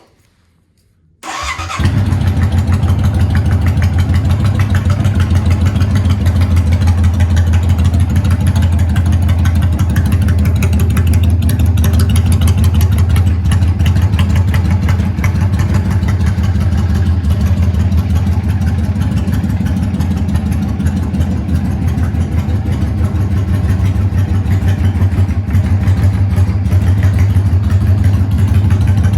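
Yamaha DragStar 400's air-cooled V-twin, breathing through an aftermarket full exhaust system and funnel air cleaner, is started about a second in and then idles steadily with a deep, even exhaust note.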